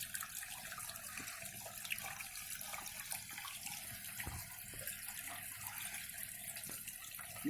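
Water running in a Sharp ES-Q70ED washing machine: a steady, fairly faint hiss of flowing water with scattered light ticks.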